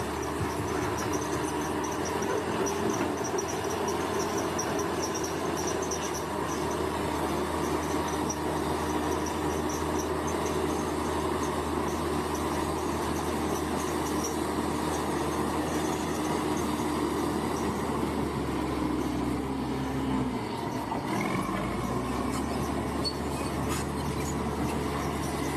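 Crawler bulldozer's diesel engine running steadily while its steel tracks squeak. About twenty seconds in, the engine note falls, dips briefly and then picks up again.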